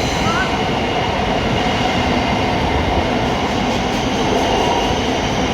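Thameslink Class 700 electric multiple unit running out of the underground platform, a steady loud rumble of wheels and traction.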